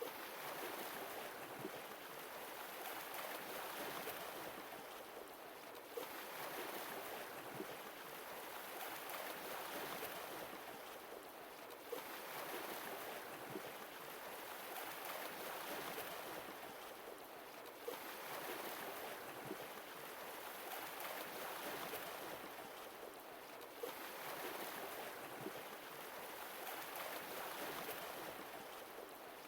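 Sea waves washing in and drawing back, each swell rising and fading about every six seconds. A faint click marks the start of each swell.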